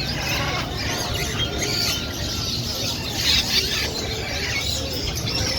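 Parrots calling: many short, overlapping high chirps and squawks that glide up and down in pitch, with a couple of louder calls about three and a half seconds in.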